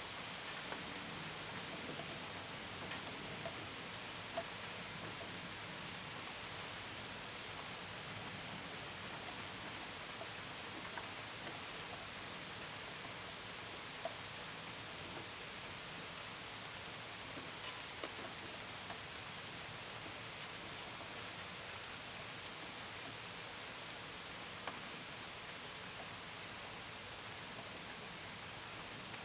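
Steady rain with scattered drops tapping close by, and crickets chirping in a high, pulsing trill throughout.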